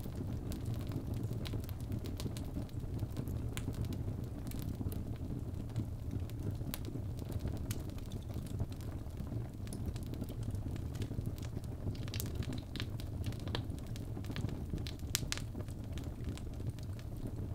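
Birch logs burning in a fireplace: a steady low rumble of the flames with scattered sharp crackles and pops, a cluster of louder pops about two-thirds of the way through.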